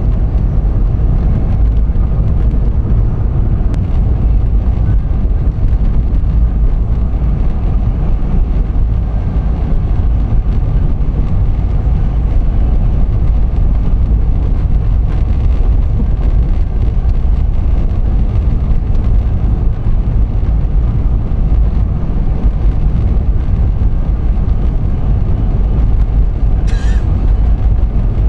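Steady low rumble of a vehicle being driven, road and engine noise, with one brief sharp click near the end.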